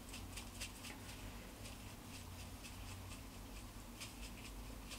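Close-up eating sounds: a person chewing, with quick wet mouth clicks and smacks in irregular clusters.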